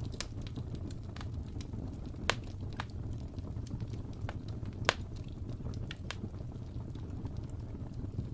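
Fire burning in a fireplace: a steady low rumble of flames with scattered sharp crackles and pops, two louder pops about two and five seconds in.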